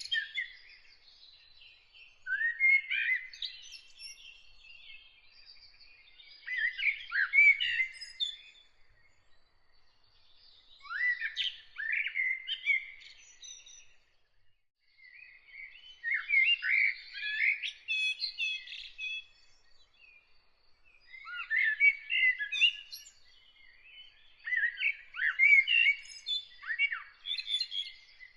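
A songbird singing in repeated phrases of rapid, varied, sliding notes, each phrase two to three seconds long with short pauses between, about six phrases in all.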